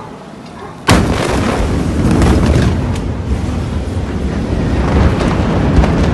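A huge explosion's blast arriving about a second in: a sudden sharp bang, then a loud, continuous low rumbling noise that carries on.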